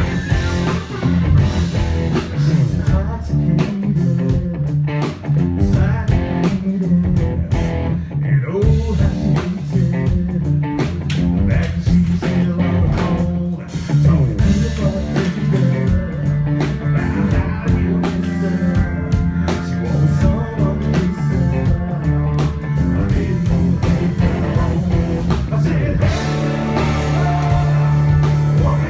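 Live band playing a blues-rock passage, with guitar to the fore over a steady beat and a heavy low end.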